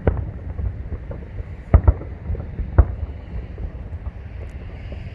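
Distant aerial firework shells bursting: a sharp bang right at the start, two in quick succession nearly two seconds in, and another about a second later, over a low rumble of wind on the microphone.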